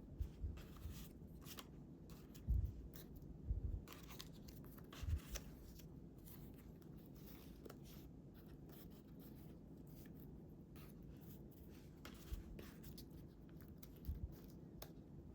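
Quiet paper-crafting at a table: faint rustles and snips of paper being handled and cut, with several soft low thumps of things set down on the table.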